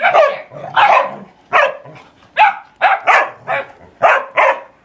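Puppy barking in play, about nine short, sharp barks in a quick, uneven series.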